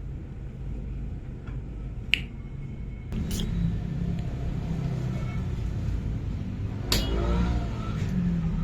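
Low steady rumble that grows louder about three seconds in, broken by a few sharp clicks.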